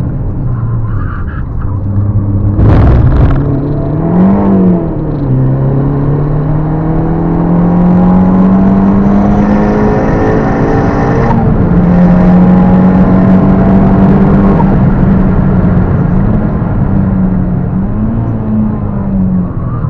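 Turbocharged four-cylinder engine of a Fiat Panda 100HP, swapped to a 1.4 T-Jet with a big Mitsubishi TD04 turbo, driven hard: the revs climb steadily through a gear and drop sharply at a gear change about eleven seconds in, with shorter rises and dips around it.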